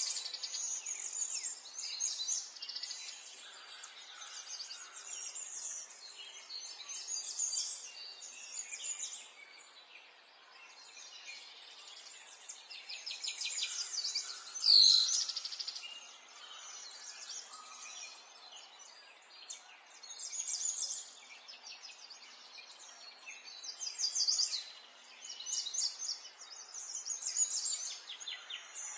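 Songbirds singing, with many short chirping and trilling phrases overlapping and following one another throughout, and one louder sharp sound about halfway through.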